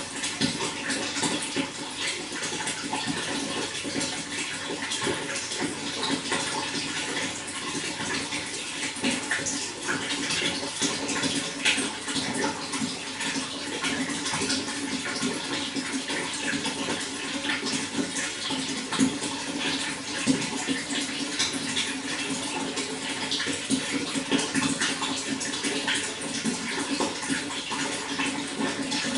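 Running water flowing and splashing steadily, a continuous rush dotted with small splashes.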